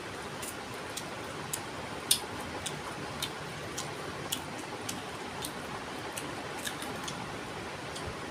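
A person chewing a mouthful of rice and fish curry, the wet mouth making short smacking clicks about twice a second, over a steady background hiss.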